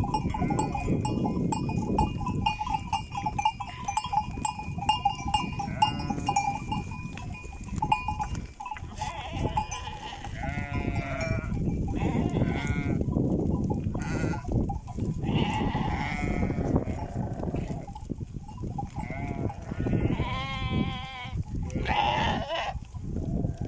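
Bells on a flock of livestock ringing and clanking, with a sustained ringing tone for the first several seconds. From about halfway on, the animals bleat several times with a wavering pitch, over a constant rustle of the flock moving.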